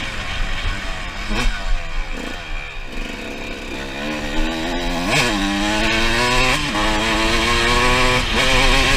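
Two-stroke engine of a 2006 Suzuki RM 125 dirt bike revving up and down as it is ridden, over a steady rush of wind. The pitch climbs, jumps sharply about five seconds in, holds high for over a second, then drops.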